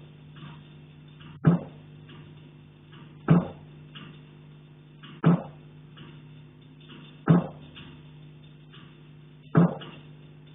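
Knocking on a central heating pipe: five sharp knocks about two seconds apart, each ringing briefly, over a steady low hum.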